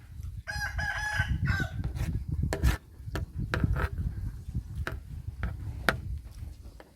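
Close-miked chewing and mouth sounds of eating, with scattered sharp clicks. A rooster crows once in the background, starting about half a second in and lasting about a second.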